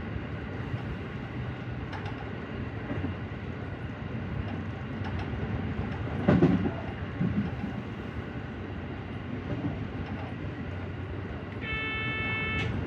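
JR Central 313 series electric train running along the line, heard from inside the car: a steady rumble of wheels on rail with a heavier knock about halfway through. A brief electronic tone sounds about a second before the end.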